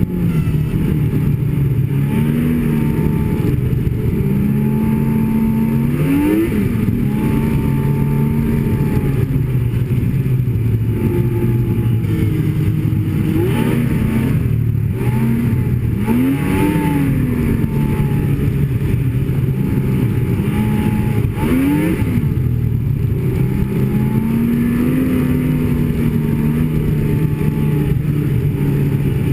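Snowmobile engine running under way, its pitch rising and falling several times as the throttle is worked.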